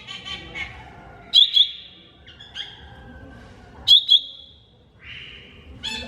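Leafbird (cucak ijo mini) singing: a repeating phrase of two sharp, loud high notes about every two and a half seconds, with softer chattering warbles between them.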